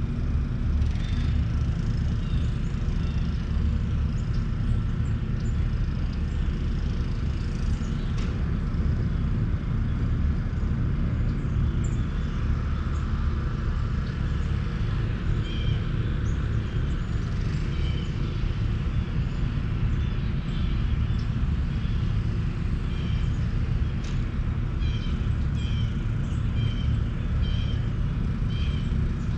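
Open-air ambience: a steady low rumble under a bird calling a short high chirp over and over, the calls coming about once or twice a second in the second half.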